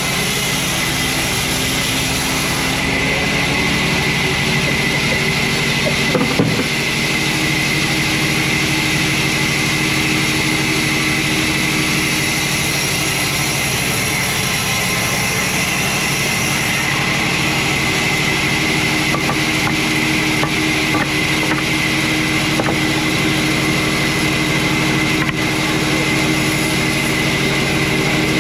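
Sawmill machinery running steadily: a loud, even engine-like drone with a hiss over it, and a short louder surge about six seconds in.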